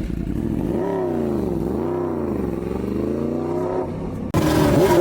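Motorcycle engine revving, its pitch rising and falling in slow swells; about four seconds in, the sound cuts to a louder stretch of quicker rev rises and falls.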